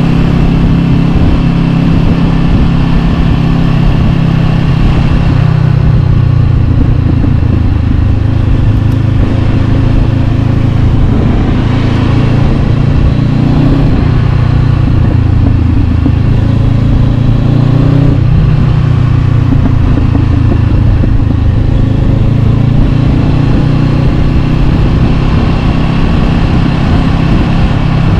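Honda CB500X parallel-twin engine running loud through an Arrow Pro-Race exhaust, its revs rising and falling several times.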